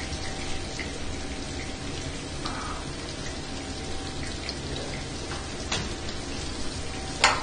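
Steady, rain-like hiss of background noise under a faint steady hum, with a few light ticks and one sharp click near the end.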